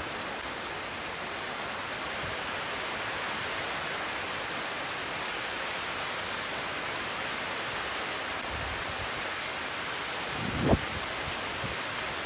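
Steady rain falling, an even hiss. Near the end a brief gust of wind buffets the microphone.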